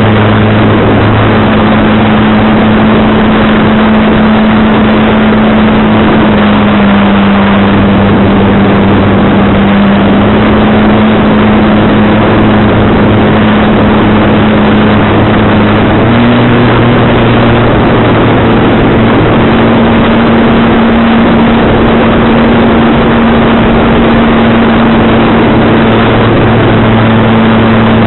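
Model aircraft's motor and propeller droning steadily, its pitch stepping slightly up and down with throttle, under a heavy rush of strong wind on the microphone.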